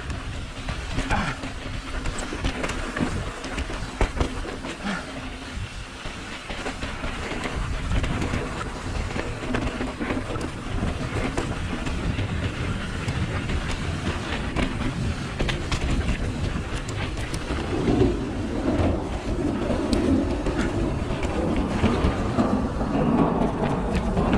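Continuous rumbling and rattling of riding over a rough trail, with many small knocks and wind on the microphone.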